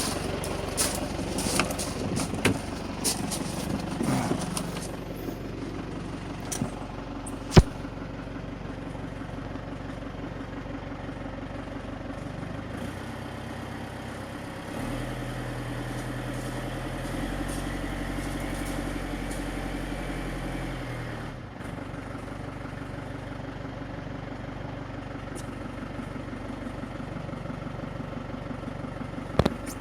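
Fiat Ducato camper van engine idling steadily, with rapid clattering knocks over the first few seconds and a sharp click about seven seconds in. Its note shifts for several seconds in the middle, then settles back to idle.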